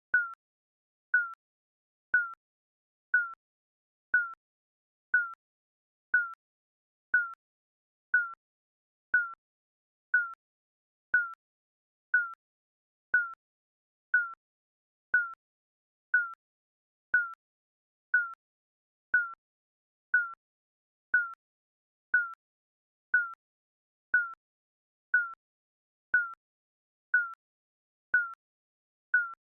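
Digital countdown timer beeping: a short high beep once a second, each starting with a sharp click and fading quickly.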